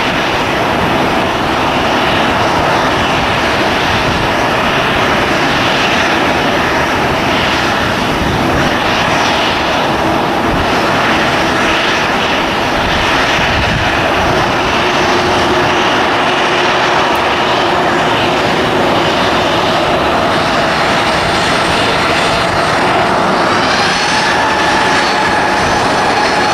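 Airliner's engines running loud and steady as a plane passes close by, with a rising engine whine coming through near the end.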